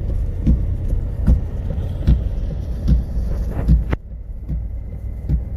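Ford F-150 pickup running, with a steady low rumble and a short soft knock repeating about every 0.8 seconds.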